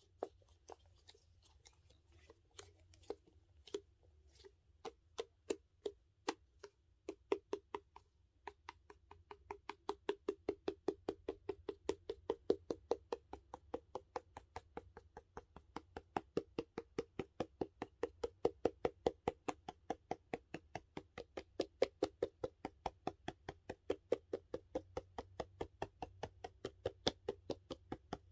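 Fingertips or nails tapping on the hard plastic case of a squishy toy: a hollow knock, sparse at first, then settling into a fast, even rhythm of about four taps a second.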